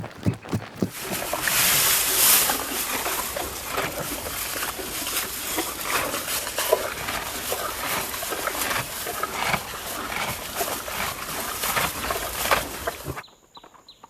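Horses: a dense, noisy stretch of rough animal sound with many irregular knocks, which cuts off suddenly about 13 seconds in to a quieter run of regular hoofbeats, about two or three a second.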